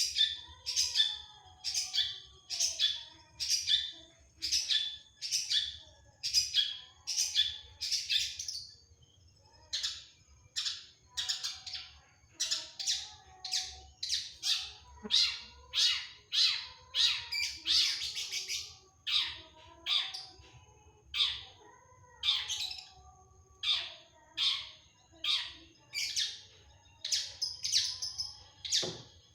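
Long-tailed shrike singing a long run of short, rapidly repeated calls, about two a second, with a short break about nine seconds in.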